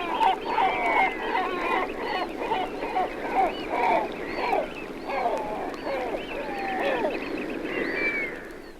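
Several great black-backed gulls calling over one another in deep, gruff calls, fading out at the end.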